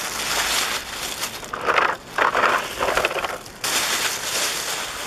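Small stones crunching and rattling as a toy vehicle is pushed through them, louder in two spells in the middle.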